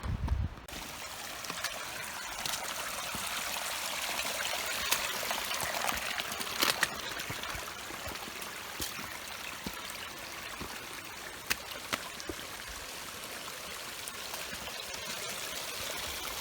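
A stream running steadily with an even rushing hiss, with a few sharp clicks scattered through it.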